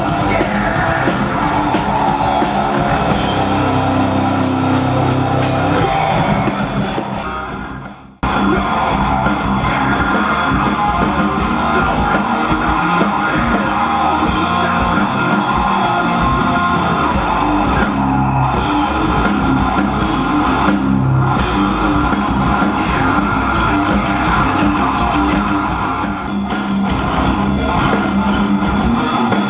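Rock band playing live, with distorted electric guitars, a drum kit and singing. The sound fades down and then cuts back in abruptly about eight seconds in.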